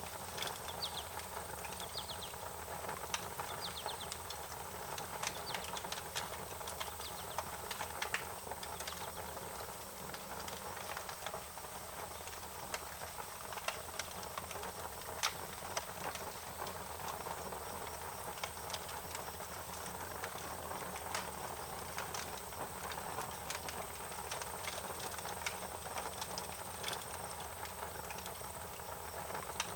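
Wood fire crackling: irregular sharp pops and snaps over a steady hiss. A few faint, rapid chirps come through in the first few seconds.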